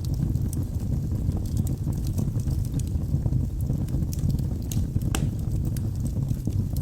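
Wood fire burning in a fireplace: a steady low roar of flames with scattered crackles and sharp pops from the logs, a few louder pops about five seconds in.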